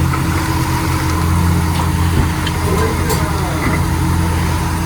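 Chevy pickup truck engine running steadily, a low even hum with no change in speed.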